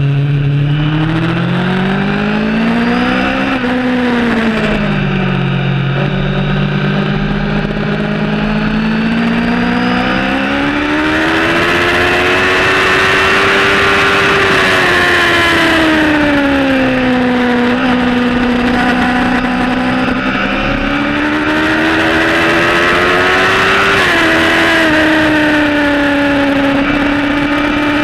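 Motorcycle engine running hard on a race circuit. The revs climb and fall away several times over the stretch, and the pitch drops quickly once, near the end.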